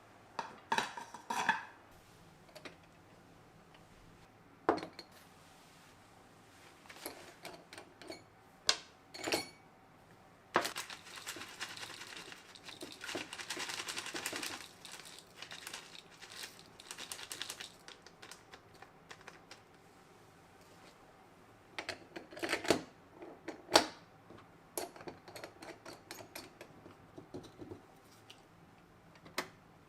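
Dishes and utensils clinking and knocking as they are handled and set down, in scattered sharp taps with a few loud clacks. A stretch of rustling hiss comes about a third of the way through.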